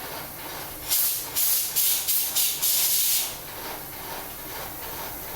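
About six short, loud hissing blasts of spray or air in quick succession, over the steady running noise of the print-shop machinery.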